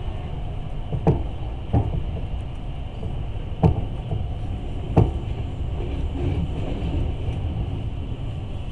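Moving passenger train heard from inside the carriage: a steady low rumble of the wheels on the track, with four sharp knocks about 1, 2, 3.5 and 5 seconds in.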